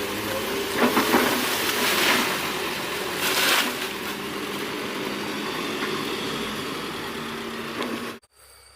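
Doosan 140 excavator's diesel engine running steadily under work, with three louder rushes of hiss about one, two and three and a half seconds in. The sound cuts off abruptly just before the end, leaving faint ambience.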